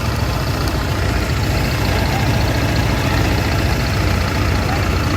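A motor vehicle running steadily, with a heavy low rumble and a constant road-noise hiss.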